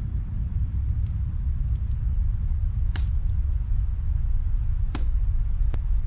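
Wood fire crackling in a fireplace: faint small crackles with three sharp pops, one about three seconds in and two more close together near the end, over a steady low rumble.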